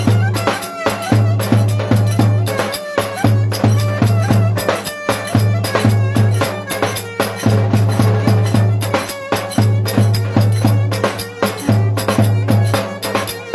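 Live instrumental Turkish folk dance music: a strong, steady low beat under a melody line, with percussion ticking throughout.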